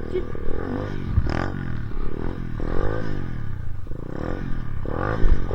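Dirt bike engine revved up and down over and over, its pitch rising and falling about once a second, as the rider struggles to push through snow. A couple of low thumps fall among the revs.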